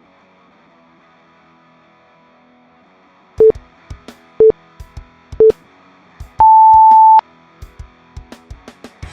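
Workout interval timer counting down: three short beeps a second apart, then one longer, higher beep, the usual signal that the next interval starts. Quiet background music plays underneath.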